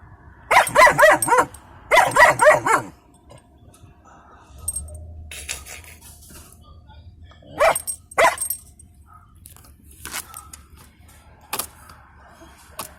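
German Shepherd puppy barking inside a truck cab: two quick runs of loud barks in the first three seconds, then two more barks about eight seconds in, with a few faint clicks afterwards.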